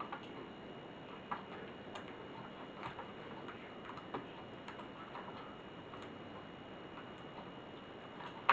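Scattered light clicks and taps at an uneven pace from hands and tools working on a laptop's plastic and metal parts, with one sharper click near the end, over a faint steady high-pitched tone.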